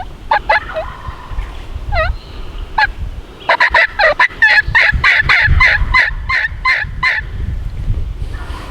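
Turkey yelping: a few scattered single notes, then a loud, rapid run of yelps, about five a second, lasting nearly four seconds.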